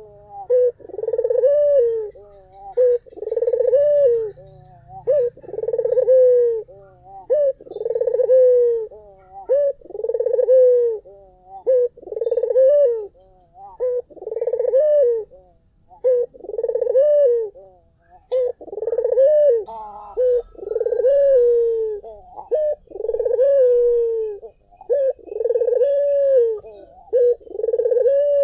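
Ringneck doves (puter) cooing over and over, about one coo every second and a half, each coo rising and then falling in pitch. A second, higher call overlaps the coos briefly about twenty seconds in.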